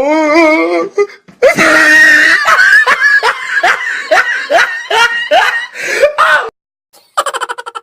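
A person's laugh used as a sound effect: a run of short, rising "ha" sounds, about two a second, for several seconds. Just before it a wavering voice trails off, and near the end a rapid fluttering sound begins.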